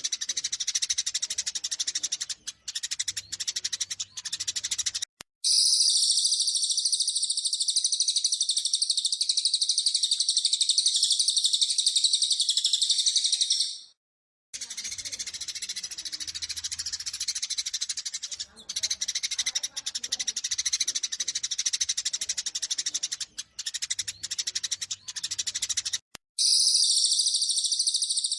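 Dense, rapid chattering and chirping of Eurasian tree sparrows giving agitated fighting calls, as a spliced birdsong recording. Sections of looser chirping alternate with louder, unbroken high chatter, each starting and stopping abruptly, at about 5, 14 and 26 seconds in.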